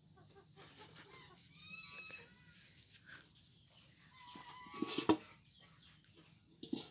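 A few short, pitched bird calls, with a sharp knock about five seconds in.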